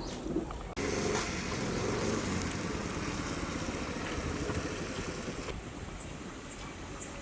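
Hot oil sizzling steadily as snacks deep-fry, starting suddenly about a second in and growing quieter after about five seconds.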